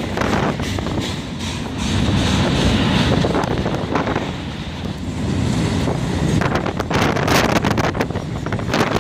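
Train rolling past, a steady rumble with wind buffeting the microphone and a run of sharp wheel clicks near the end.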